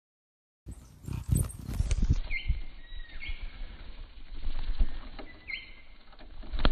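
Hummingbird making three short, high chirps, mixed with low thumps and rumble close to the microphone.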